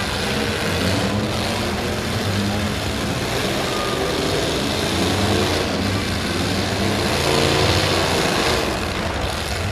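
Engines of several demolition derby stock cars running and revving together, a dense, steady engine noise that swells louder about seven to eight and a half seconds in.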